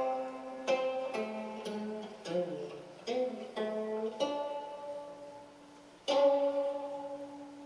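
Solo gayageum, the Korean plucked zither, playing slow single notes that ring out and fade, some bent in pitch after the pluck. A short quiet stretch comes before a strong note about six seconds in.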